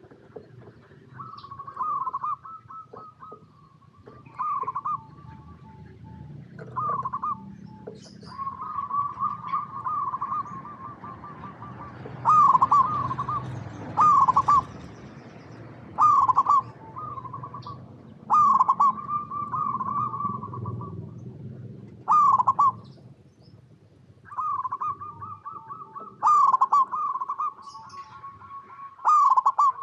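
Zebra doves (perkutut) cooing: repeated rippling phrases of quick staccato notes, overlapping one another, with loud phrases coming about every two seconds through the middle. Faint high chirps sit above them.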